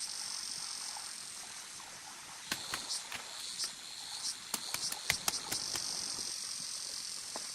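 Insects chirring in a steady high-pitched drone, with a run of irregular sharp clicks and knocks in the middle.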